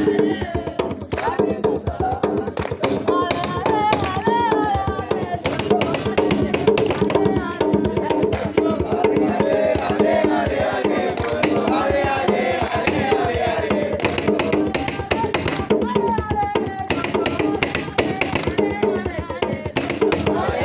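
A group of voices singing a campfire song over fast, steady hand percussion.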